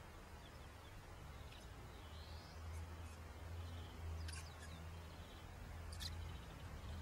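Faint, scattered high chirps of small birds over a low, steady outdoor rumble, with a short rising call about two and a half seconds in and sharper chirps about four and six seconds in.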